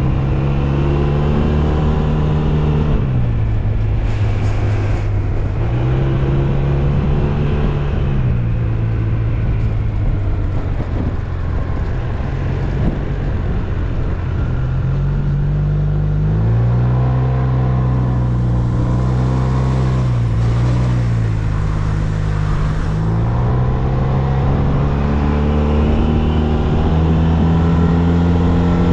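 SYM Maxsym TL 508 maxi-scooter's parallel-twin engine under way, its note rising and falling several times as the throttle is opened and eased off, over a steady low rumble.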